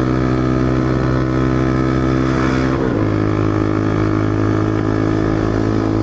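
Motorcycle engine running at steady revs under way. About three seconds in, a gear change briefly breaks the sound and the engine settles at a lower pitch.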